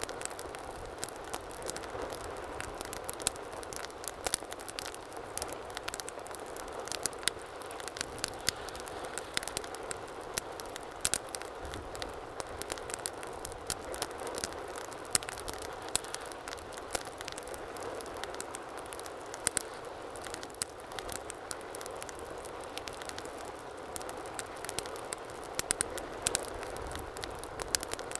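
Wood fire crackling in a fireplace: a steady low rush of flames with frequent sharp, irregular pops and snaps.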